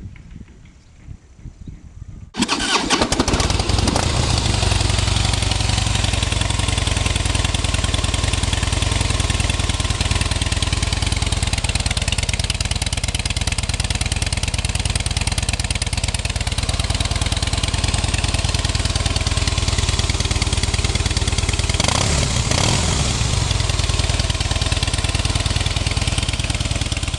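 2010 Harley-Davidson Heritage Softail's Twin Cam 96 V-twin through its stock mufflers, cranking and catching about two seconds in, then idling steadily. There is one brief throttle blip late on.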